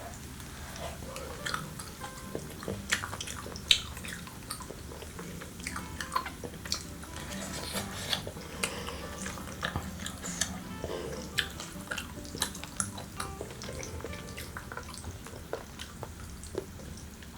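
Close-up wet chewing and mouth clicks from eating chewy grilled beef tripe, with many small sharp irregular clicks over a steady low hum.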